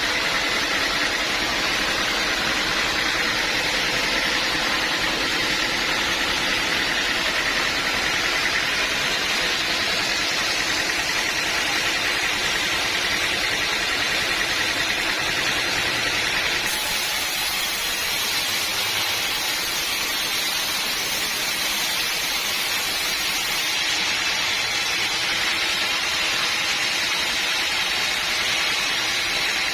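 Sawmill machinery running steadily, an even mechanical drone. A high hiss joins in from about seventeen to twenty-four seconds in.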